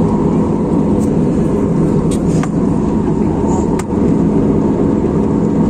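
Steady engine and airflow noise inside an airliner cabin in flight, with a faint steady tone and a few small clicks.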